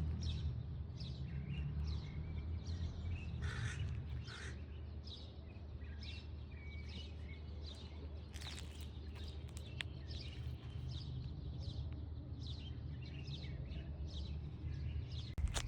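Birds chirping, many short calls scattered throughout, over a steady low rumble.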